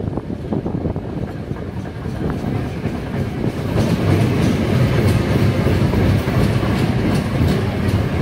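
Steam-hauled passenger train running along the track, heard from aboard: a steady rumble with wheels clicking over the rails, growing louder about four seconds in.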